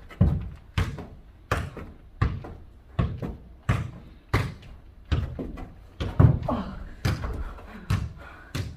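A ball being kicked and bouncing back and forth in a fast foot-volleyball rally: a sharp thud roughly every two-thirds of a second, about a dozen in all.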